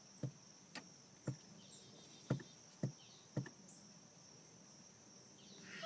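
A run of about six faint, short taps or knocks, roughly half a second apart, in the first three and a half seconds, over a quiet steady hiss.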